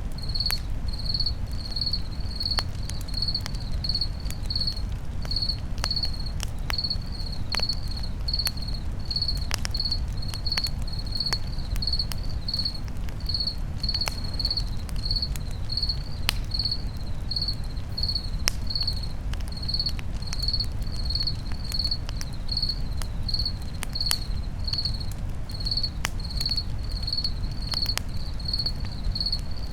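Campfire crackling, with scattered sharp pops over a low steady rumble, while a cricket chirps steadily at about two chirps a second.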